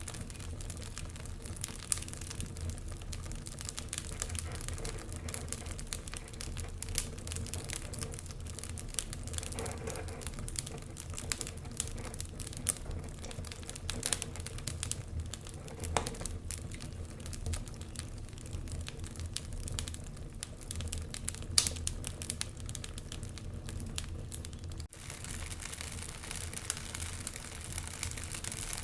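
Wood fire crackling in a fireplace, with frequent sharp irregular pops and snaps over a steady low rumble of the burning fire.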